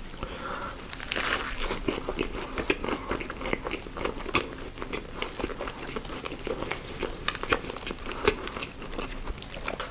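Close-miked chewing of fast food, with many small crunches and wet mouth clicks.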